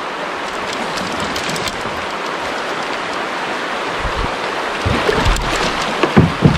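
Shallow river water rushing and splashing around a kayak, a steady hiss. About five seconds in, low thuds and buffeting come in and grow louder.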